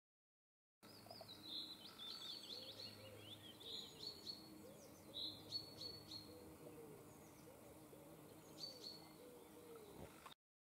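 Wild songbirds singing: repeated bursts of quick, high chirps and trills. The sound cuts in under a second in and cuts off abruptly near the end.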